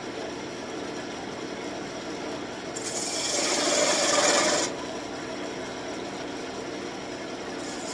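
Wood lathe running with a birch wand blank spinning. About three seconds in, a turning tool bites into the wood for about two seconds, a rasping cutting hiss, then lifts off.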